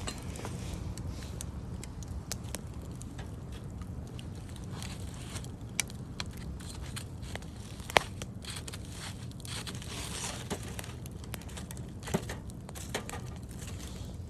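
Wood campfire crackling, with a few sharp pops over a steady low rumble; the loudest pop comes about eight seconds in.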